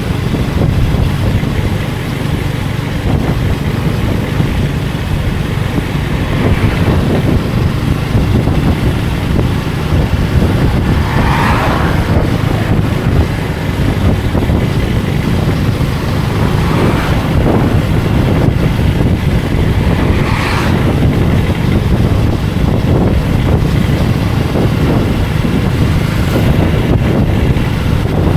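Motorcycle engine running on the move, with wind noise on the microphone and street traffic around it. Two brief higher-pitched sounds cut through, about 11 and 20 seconds in.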